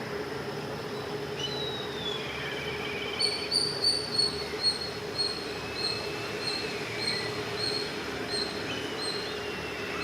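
A bird calling in a run of short, high chirps, about two a second, loudest at first and then fainter. Beneath it is the steady drone of a diesel locomotive's engine running.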